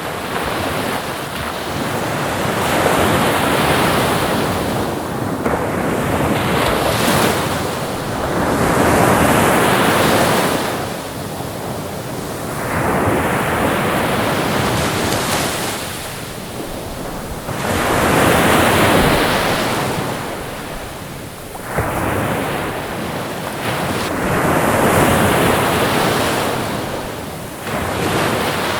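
Ocean surf: waves breaking and washing in, each one swelling to a loud rush and then fading back, about every five to six seconds, with a steady hiss of water between them.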